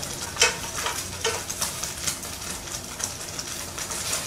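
Mini chicken skewers sizzling steadily in a frying pan, with a few sharp pops of spattering fat in the first half.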